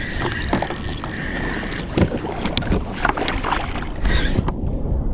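Wind buffeting the microphone over water sloshing around a kayak, with scattered knocks and splashes and a thin steady whine that stops about a second in.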